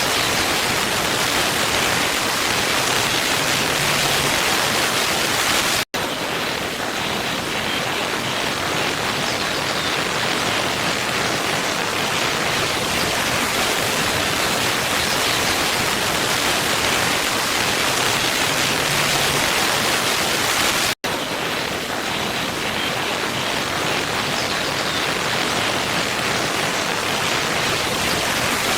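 Waterfall rushing: a steady, dense hiss of falling water. The sound cuts out for an instant twice, about six seconds in and again fifteen seconds later.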